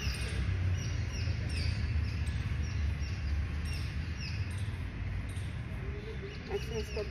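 A bird calling with a series of short, high, falling chirps, about two a second, pausing briefly before starting again near the end, over a steady low rumble.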